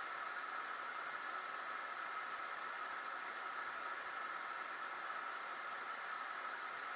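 Steady, even hiss with no distinct events: the recording's own noise floor.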